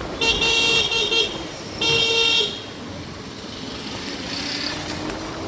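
A vehicle horn honking twice, a blast of about a second and then a shorter one, over steady street traffic noise.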